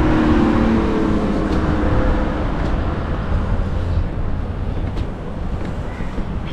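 Road traffic passing close by: a steady rush of vehicles with a low rumble, and an engine hum standing out in the first second or so.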